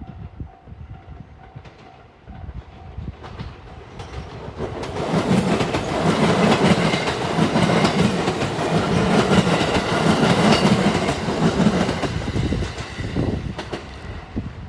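Marine Liner electric multiple-unit train passing through a level crossing at speed. The crossing bell dings steadily at first. About four seconds in, the train's rushing and rhythmic wheel clatter swell up, stay loud for several seconds, then fade near the end.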